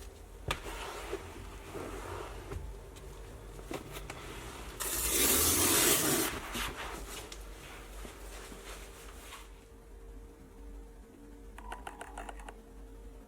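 Hand detailing work on a car: rubbing and light scraping with occasional sharp clicks. A loud hiss lasts about a second roughly five seconds in, and a quick run of small clicks comes near the end.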